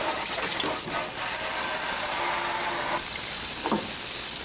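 Water from the kitchen sink running in a steady hiss while a microwave tray is rinsed, with a short knock about three-quarters of the way through.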